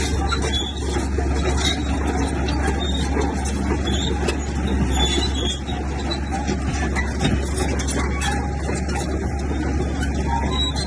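Komatsu bulldozer's diesel engine running steadily under work, a continuous low rumble, with short high-pitched squeaks coming and going.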